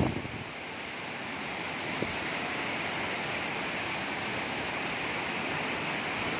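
Waterfall rushing as a steady, even roar of falling water, with a brief thump right at the start.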